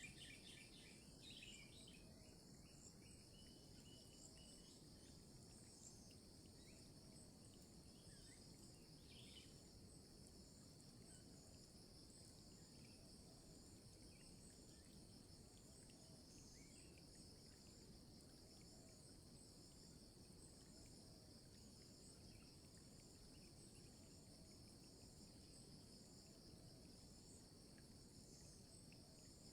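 Faint, steady chorus of insects trilling high and pulsing evenly, with a few brief bird chirps in the first couple of seconds.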